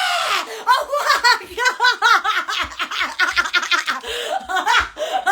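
High-pitched human laughter in quick repeated syllables, about four to five a second, with a short breath around four seconds in.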